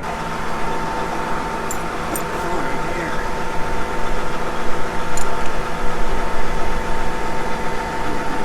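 Vehicle engine idling with a steady hum, with a few light clicks around two and five seconds in.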